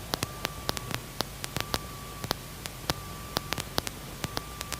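Aircraft intercom line noise: a steady hiss broken by irregular crackling clicks, with a faint high tone that comes and goes.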